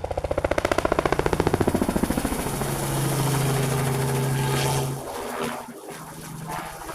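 Crop-dusting helicopter passing low and close overhead: rapid rotor thumps dominate the first two seconds, the pitch drops as it goes by, then a steady engine tone carries on and fades after about five seconds.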